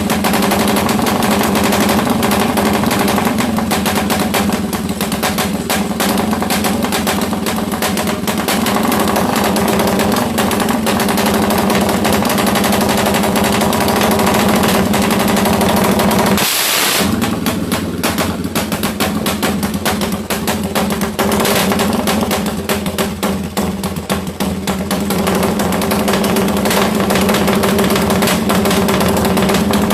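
Suzuki Satria FU single-cylinder engine, bored up with an 87 mm piston, running at a steady fast idle with a rapid, choppy firing beat: the "helicopter" sound. It cuts out briefly about halfway through, then resumes.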